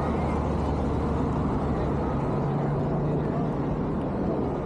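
A vehicle engine holds a steady low hum over a dense wash of busy outdoor city noise.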